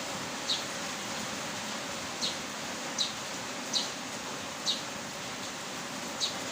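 Steady heavy rain hiss. A short, high chirp sounds over it six times, roughly once a second.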